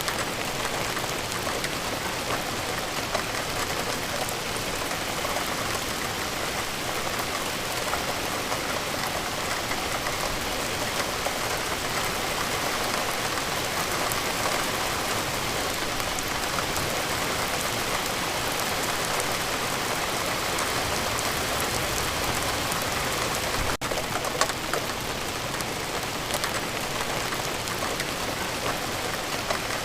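Steady rain falling, made of many separate drop hits on a hard surface, even in level throughout, with a momentary break about three-quarters of the way through.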